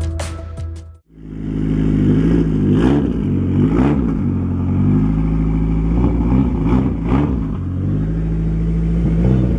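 Music ends about a second in, then a Mitsubishi 4G63 turbocharged four-cylinder engine runs, its revs rising and falling in several short blips.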